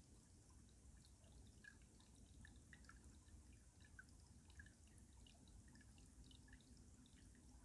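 Faint stream water trickling and dripping under ice: many small, irregular plinks over a low rumble of flowing water.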